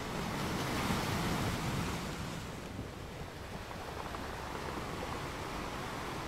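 Rushing water noise, a steady wash that swells briefly about a second in and then settles.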